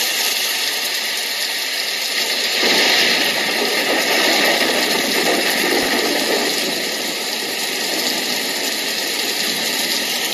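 Small portable white noise machine playing its thunder sound through its built-in speaker: a steady hiss of rain-like noise, joined by a fuller, lower rumble about two and a half seconds in.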